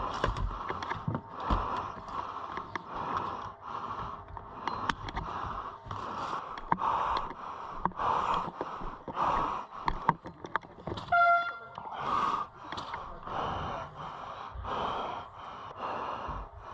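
Heavy, rhythmic breathing close to the microphone, a breath roughly every 0.7 seconds, with scattered small clicks. About eleven seconds in, a short horn-like tone sounds once.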